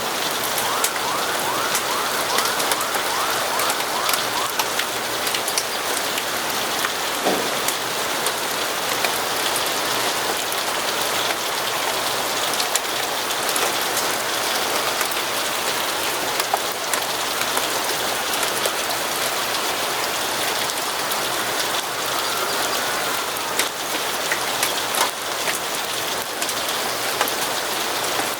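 Steady rain, an even hiss dotted with sharp little drop clicks, with a brief falling tone about seven seconds in.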